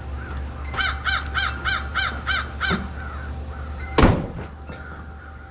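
A bird calling: a quick run of about seven arched notes, about three a second, with fainter calls before and after. About four seconds in there is a single sharp knock, louder than the calls.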